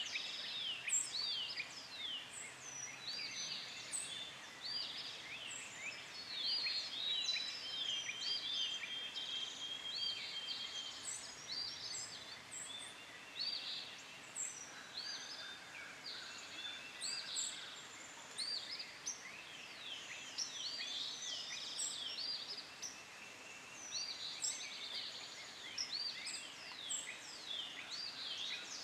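Many birds calling and singing together: a dense chorus of short, quick chirps and whistles overlapping one another, with a thin steady trill for roughly the first third.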